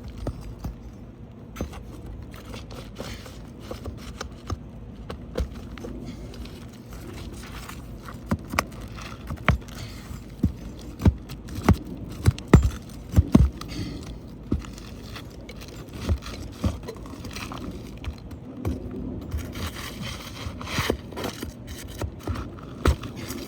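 An asphalt roof shingle being worked loose and scraped off the shingle beneath it, with many irregular sharp knocks and cracks from a hand tool, thickest about halfway through. The shingle is stuck fast, like melted to the one under it, so it tears and cracks as it comes free.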